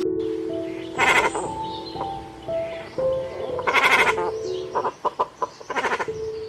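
Background music with sustained notes, over which an animal calls loudly three times: about a second in, near the middle, and near the end.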